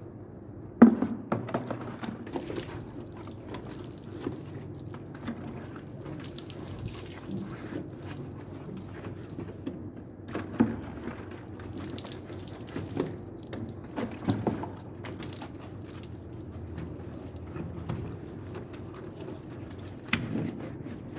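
Water dripping and splashing during a car wash, with irregular knocks, the loudest about a second in, over a steady low hum.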